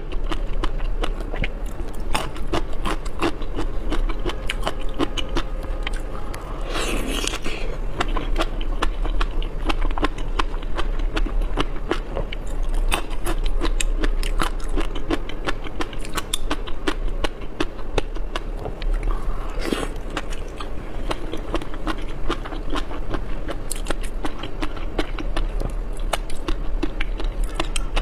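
Close-miked mouth sounds of a person eating raw seafood: continuous wet chewing and biting with many small clicks. Twice a short, louder rush of noise breaks in. A low steady hum runs underneath.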